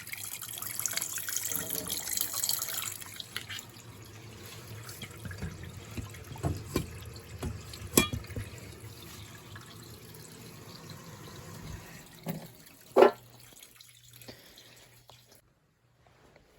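Water running from a faucet, strongest for the first few seconds and then weaker, with scattered clicks and knocks; the loudest is a single sharp knock about thirteen seconds in.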